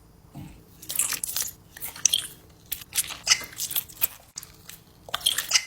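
A person biting into and chewing a lemon, in wet, crunchy bites close to the microphone: a run of bites through the first half and another short bout near the end.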